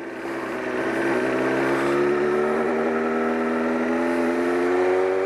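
Honda CBR954RR's inline-four engine pulling on the move, its pitch climbing slowly and steadily from about a second in as the bike accelerates.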